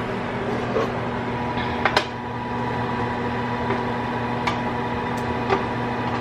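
Microwave oven running with a steady hum. Two sharp clicks come close together about two seconds in, and a few lighter clicks follow later, as things are handled.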